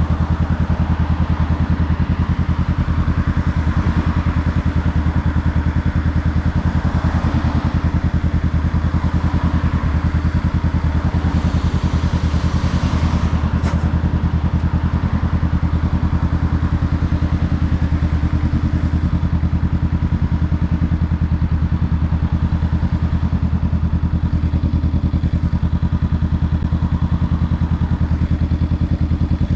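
Honda Rebel 500's parallel-twin engine running at a steady, unchanging pitch, its exhaust note even throughout.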